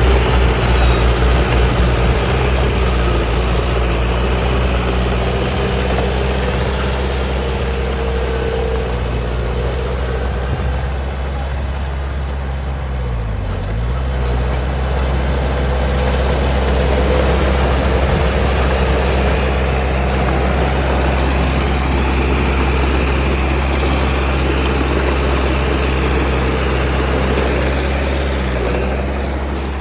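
Heavy diesel engine of earth-moving machinery running steadily. About halfway through, the engine speed drops sharply for a moment and recovers, with a smaller dip near the end.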